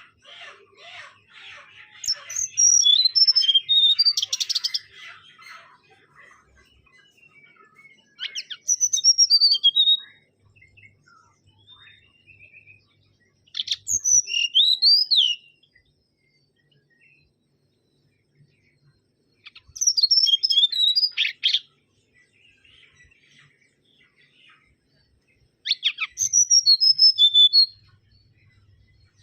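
Mangrove whistler singing: five loud phrases of quick whistled notes that swoop up and down, several seconds apart. Fainter rapid twittering runs under the first few seconds.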